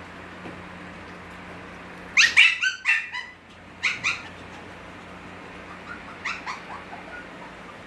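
Havanese puppies yipping: a quick run of about five short, high yips about two seconds in, two more a second later, then fainter yips near the end.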